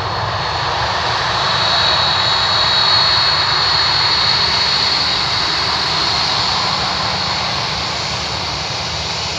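Jet airliner's engines passing close by: loud steady rushing noise with a high whine, swelling to its loudest about three seconds in and then slowly fading.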